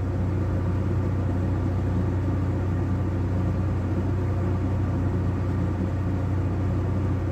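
ZMZ-405 four-cylinder petrol engine of a GAZ van idling with a steady, even hum.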